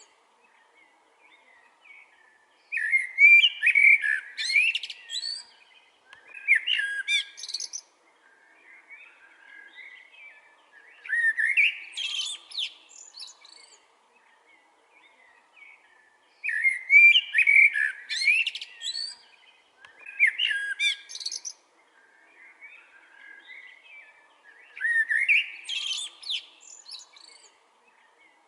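A blackbird singing: loud warbling, whistled phrases of about two seconds each, repeated every few seconds, with quieter twittering in the gaps.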